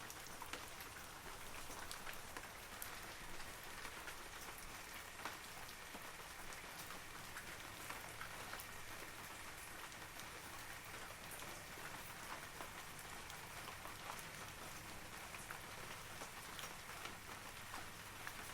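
Steady rain falling through forest trees, a continuous hiss dotted with the sharp ticks of individual drops.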